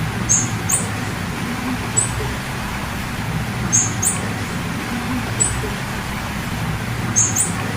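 Female blue-black grassquit (tiziu) giving short, high 'fit' calls, about eight of them, some single and some in quick pairs a second or two apart, over a steady low hum.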